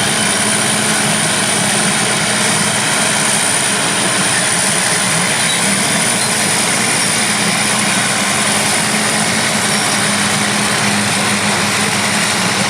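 Heavy diesel earthmoving machinery running steadily under load, a dense engine noise with a constant low hum and a thin high whine over it.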